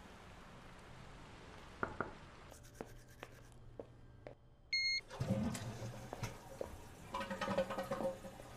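A few sharp clicks, then a short steady electronic beep about halfway through, then a louder stretch of rushing, water-like noise with knocks in it.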